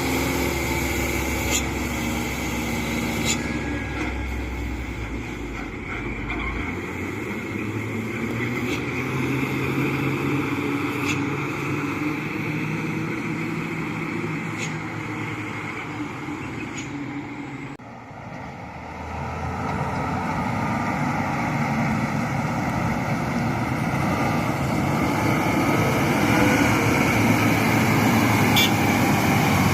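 Loaded dump trucks' diesel engines and road noise as the trucks pass by on a downhill road. The sound is continuous, breaks off suddenly about two-thirds of the way through, then builds up steadily again.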